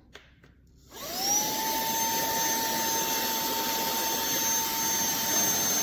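TANYO cordless handheld vacuum cleaner switched on about a second in: its motor whine rises quickly, then settles into a steady high whine over the rush of air.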